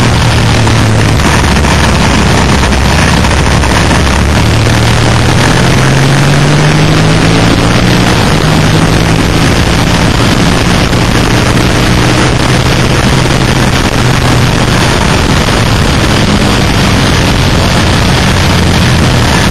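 Suzuki SV650 V-twin motorcycle engine pulling hard on track, heard from onboard under a heavy rush of wind on the microphone. The engine note climbs in pitch a few seconds in as the bike accelerates, then holds steadier.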